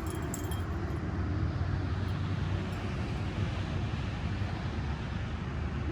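Steady rumbling noise, heaviest in the low end, with no distinct events.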